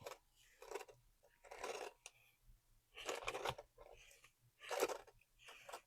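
Craft materials being handled at a work table: about six short, scratchy scraping strokes, one every second or so.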